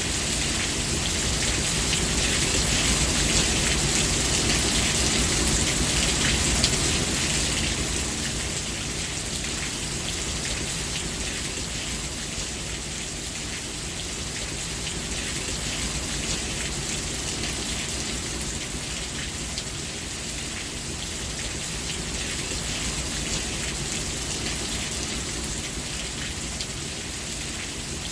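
Steady rain falling, a dense, even hiss of drops, slightly louder for the first several seconds before easing a little.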